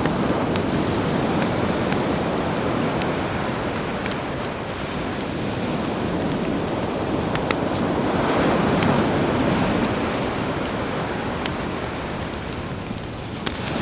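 Sea waves washing ashore, with a campfire crackling over them in scattered sharp pops. A wave swells up about eight seconds in.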